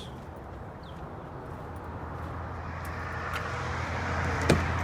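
Road vehicle noise growing steadily louder as a vehicle approaches, with a low hum underneath and one sharp click about four and a half seconds in.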